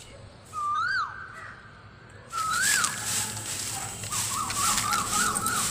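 A bird calling with clear whistled notes that rise and then fall, followed near the end by a quick run of short notes. A loud rustling with crackles starts about two seconds in, typical of grass being pulled up by hand.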